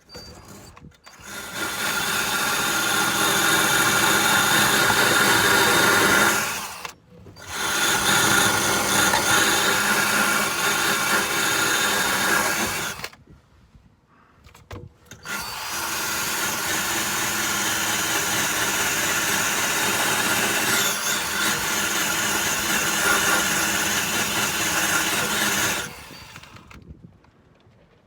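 Power drill running under load, scrubbing surface rust off a car's underside, in three long runs with short pauses between them.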